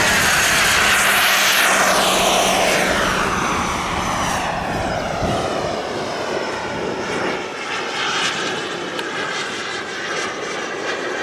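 Model jet turbine (a K-102) of a radio-controlled MB-339 jet running in flight as the plane passes, a steady rushing whine with a sweep that slides down in pitch over the first few seconds, then carries on a little quieter.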